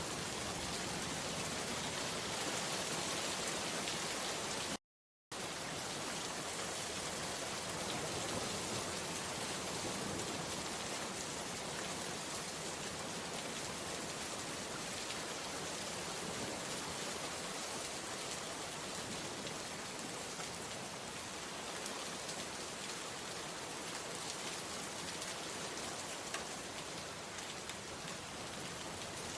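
Steady rain falling, an even wash of many drops. The sound cuts out completely for about half a second around five seconds in.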